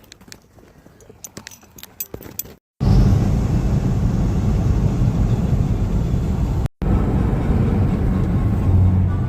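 Faint scattered clicks and light rattles, then, after a sudden cut about three seconds in, a car's steady low road and engine rumble heard from inside the cabin while driving.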